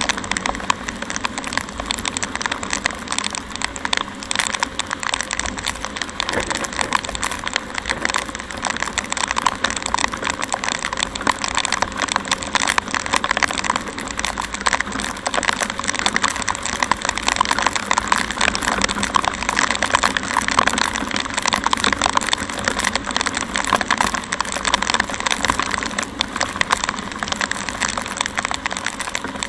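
Heavy rain on a moving motorcycle: a steady, dense crackling hiss of raindrops striking the microphone over the road and engine noise.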